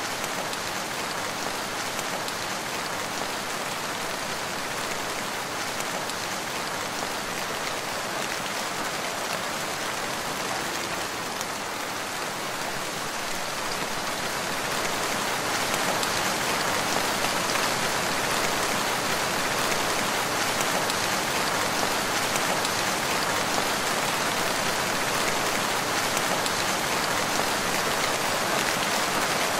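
Steady rain falling on a forest, a dense even hiss of drops that grows slightly heavier about halfway through.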